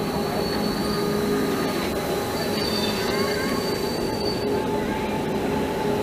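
Gornergrat Railway electric rack-railway train passing close by and pulling away, running with a steady rumble over the track and several thin, steady squealing tones from its wheels and running gear.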